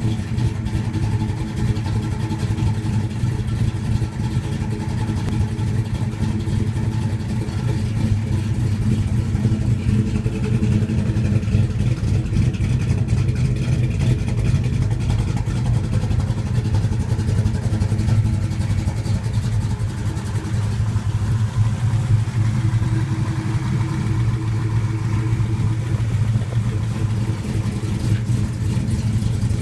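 1972 Plymouth Duster's 440 six-pack big-block V8, with a big high-energy cam and three two-barrel carbs, at a rough, lopey idle that runs on steadily.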